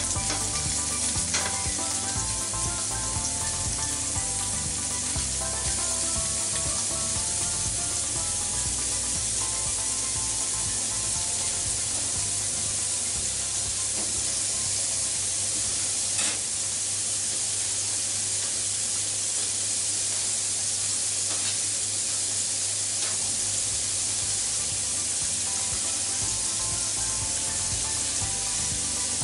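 Minced pork and garlic sizzling in hot oil in a frying pan, a steady frying hiss, as more pork is spooned in and stirred with a utensil.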